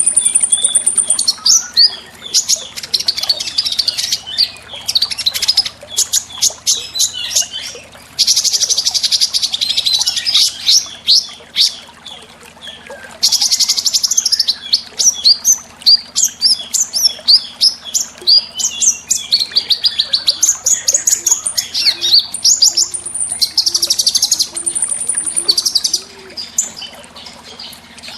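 Small songbirds chirping and trilling, high-pitched and without a break. Sharp single chirps alternate with fast rattling trills, the densest about a third and halfway through.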